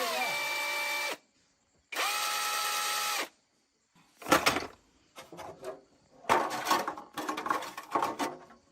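A power tool run in two short bursts of about a second each, its motor spinning up and holding a steady whine. It is followed by a sharp clatter and a stretch of irregular metal knocks and rattles.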